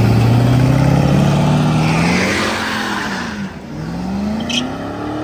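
A car accelerating hard away from the kerb, its engine revs climbing steadily, dropping at a gear change about three and a half seconds in, then climbing again as it pulls away and fades.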